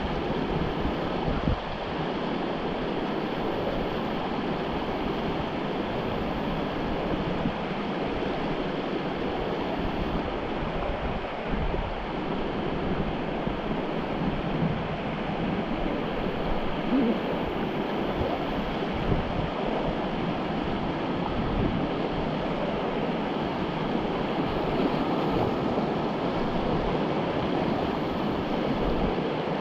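Whitewater river rushing steadily past.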